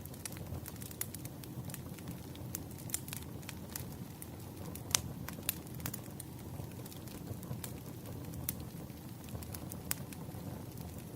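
Wood campfire burning: a steady low rush of flames with scattered sharp crackles and pops from the wood, the loudest pop about five seconds in.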